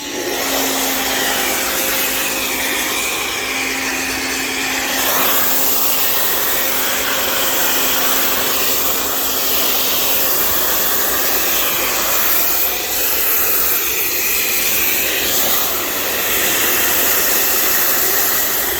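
Pressure washer running and spraying through an MTM foam cannon with a 1.25 mm orifice: a loud, steady hiss of spray that starts suddenly and holds without a break.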